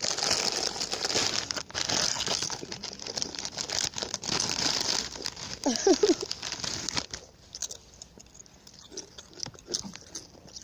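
Plastic snack bag crinkling and rustling as hands dig into it for about seven seconds, then stopping; after that only faint, scattered crunching of crisps being chewed.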